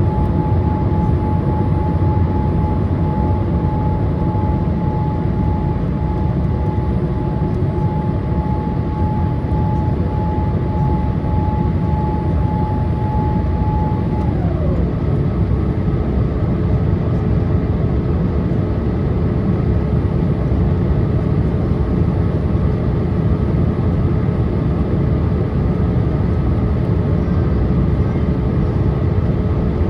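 Boeing 787-8 cabin noise in descent: a steady low rumble and airflow hiss, with a steady whine that glides down to a lower pitch about halfway through and holds there.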